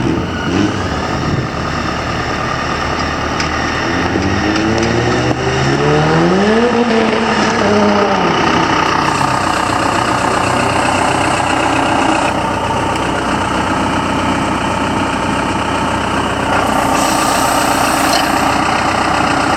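John Deere 6220 tractor's diesel engine running, revving up over a few seconds and then dropping back down, after which it runs steadily.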